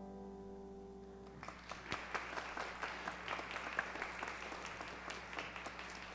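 The last piano chord rings and fades away, then a congregation applauds from about a second and a half in, a steady patter of hand claps.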